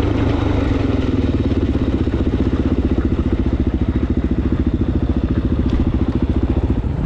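Suzuki DR-Z400S dual-sport motorcycle's single-cylinder four-stroke engine running at low revs, with an even pulsing beat from about a second and a half in.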